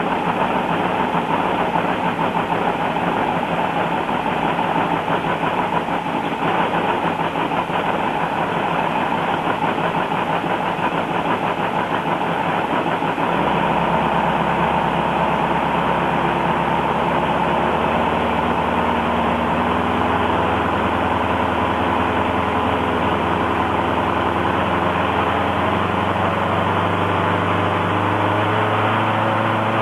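Kinner K5 five-cylinder radial engine running steadily with a rapid, even firing beat. About halfway through, its sound settles into a steadier low hum.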